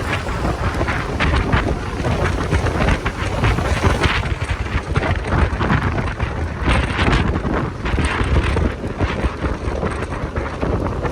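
Wind buffeting the microphone of a moving motorcycle, rumbling and gusting unevenly over engine and road noise.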